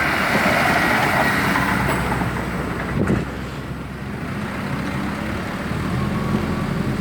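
Vehicle engine running through the exhaust being tested, giving a steady low exhaust note. A louder rush of noise comes over the first couple of seconds, and there is a single sharp knock about three seconds in.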